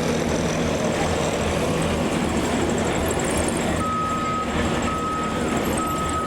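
A heavy vehicle's engine running steadily at idle. From about four seconds in, a reversing alarm beeps at an even pitch, roughly once a second.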